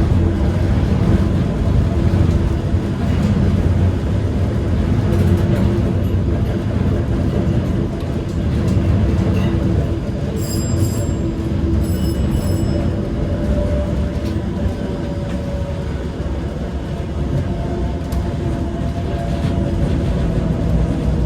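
Heritage electric tram running on its rails, a steady low rumble of wheels and running gear with a humming tone. Two brief high-pitched squeals come about halfway through.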